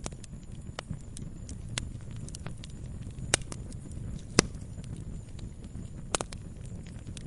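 Campfire crackling: irregular sharp pops and snaps of burning wood over a steady low rumble of the flames, with two louder pops in the middle and a quick double pop near the end.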